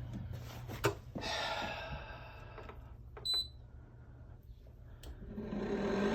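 Air conditioner: a click, a short electronic beep about three seconds in, then its fan motor starting up near the end and growing steadily louder over a low hum. The motor bearings are bad, and it sounds a lot worse than another unit.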